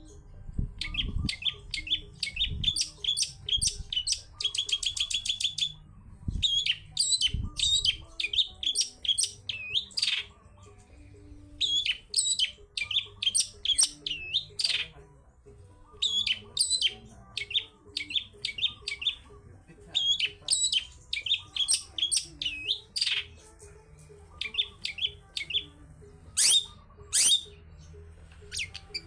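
Long-tailed shrike (cendet) singing a fast, varied song of short sharp chirps in runs, with a quick even trill about four seconds in and short pauses between phrases. A few low thuds sound in the first eight seconds.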